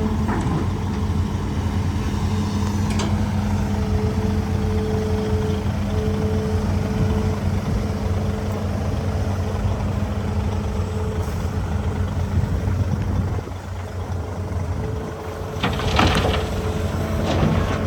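Hitachi ZAXIS200 hydraulic excavator's diesel engine running steadily under load, dipping briefly near the end, followed by two sharp knocks.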